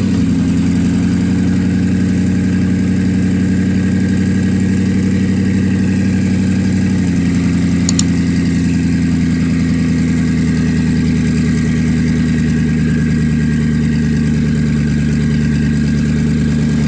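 Car engine idling steadily, its pitch stepping up slightly about seven seconds in.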